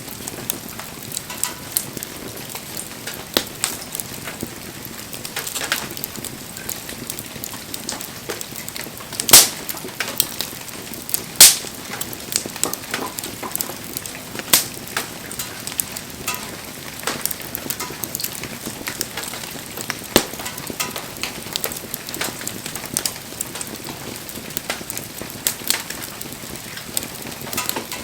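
Wood campfire burning: a steady soft hiss full of frequent crackles, with a few much louder pops near the middle.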